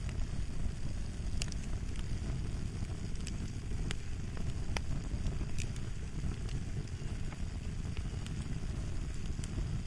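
Crackling fire: a steady low rumble with irregular sharp pops, about one a second.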